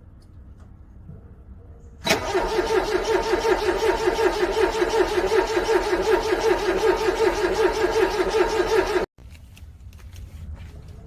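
A car engine cranking on its starter in freezing cold, a steady rhythmic chug for about seven seconds without catching, then cutting off abruptly. It is a cold engine struggling to start.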